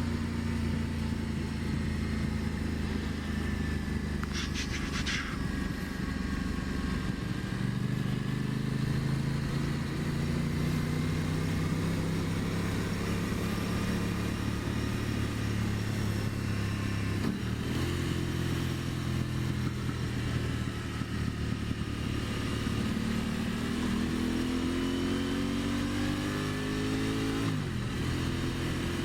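A 2023 Aprilia Tuono 660's parallel-twin engine under way. The revs climb steadily, then drop sharply about 17 seconds in and again near the end. A short clicking sound comes about four seconds in.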